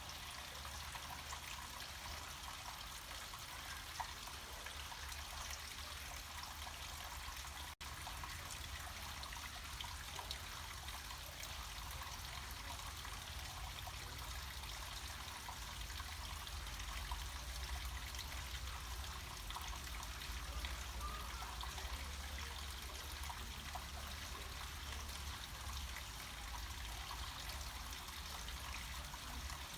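Water flowing down a small mountain stream: a steady rush of running water with a low rumble beneath it. The sound drops out for an instant about eight seconds in.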